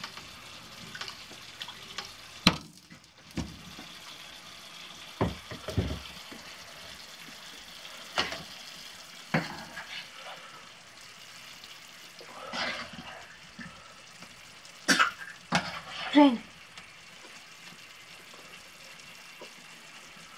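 Diced butternut squash frying in oil in a skillet, sizzling steadily while being stirred, with a few sharp knocks and clacks of utensils and cookware, the loudest near the middle.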